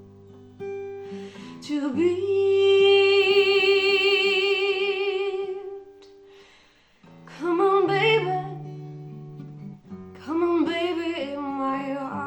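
A song: a singer holds one long note with vibrato, then sings two shorter phrases, over a plucked acoustic guitar.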